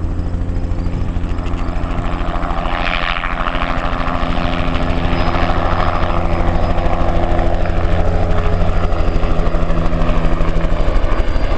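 Crop-spraying helicopter flying close by, its rotor beating in a fast, even chop over a steady engine hum, growing gradually louder.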